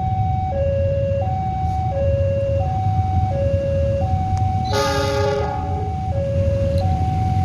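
Level-crossing warning alarm sounding, a two-tone electronic signal alternating between a lower and a higher note about every two-thirds of a second, which warns that a train is approaching and the barriers are down. Underneath runs a steady low rumble of traffic, and a brief loud horn-like blast cuts in about five seconds in.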